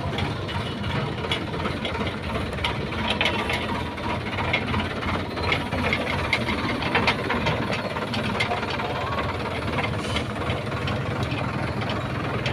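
Tractor engine running steadily, with scattered clicks and rattles over it.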